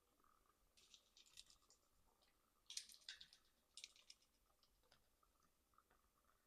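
Near silence with a few faint, short bursts of crackly clicking.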